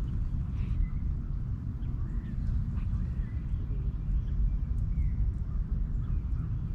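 Birds calling with short scattered chirps over a steady low rumble of outdoor ambience.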